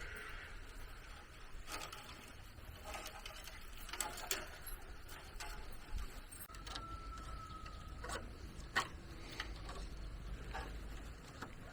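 Scattered light knocks and clicks at an irregular pace, with a brief thin high note about seven seconds in.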